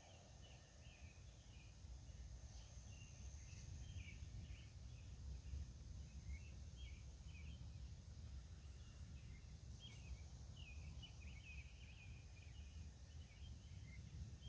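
Faint night-time outdoor ambience: many short chirping calls over a steady high drone and a low rumble.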